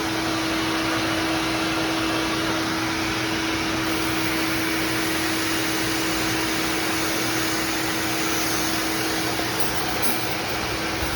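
Shop vac running steadily, a constant motor whine over a rushing hiss, as it draws water out of the air conditioner's coil housing.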